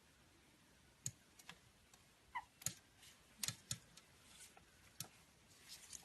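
Quiet, scattered sharp clicks and taps, about a dozen at uneven spacing, with one brief faint chirp about two and a half seconds in.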